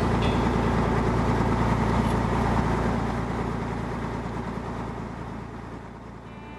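Engine running steadily with a low rumble, fading away over the last few seconds.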